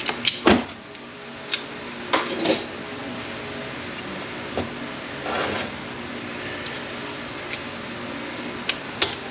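Metal parts of an A650E automatic transmission clinking and knocking as they are handled during teardown: a handful of separate sharp knocks, the loudest near the start, over a steady low hum.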